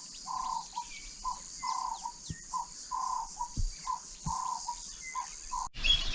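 A bird calling over and over in a steady rhythm, a short note followed by a longer one, above a constant high-pitched insect drone. Both stop abruptly near the end.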